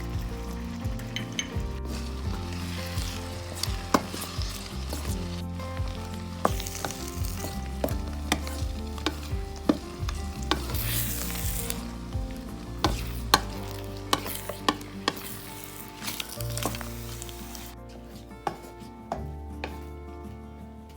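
Shrimp fried rice sizzling in a stainless-steel electric skillet as a spatula stirs and scrapes it, with frequent sharp clicks of the utensil striking the pan.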